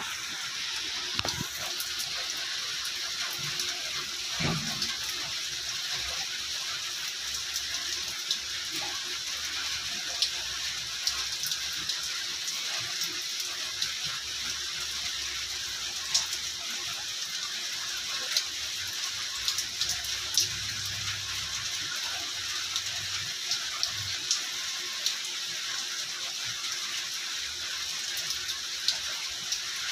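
Steady rain falling, with occasional sharp ticks of drops striking close by.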